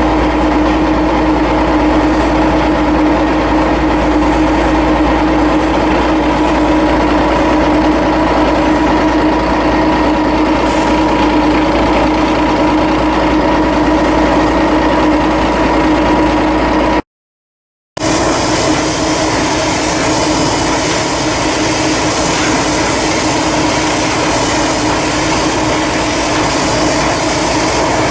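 Steady machinery noise with a constant hum. About 17 seconds in it cuts to a second of silence, then a different steady machine noise runs on.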